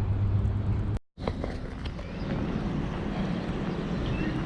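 Steady low outdoor rumble, broken by a sudden cut to silence for a split second about a second in, then carrying on a little quieter.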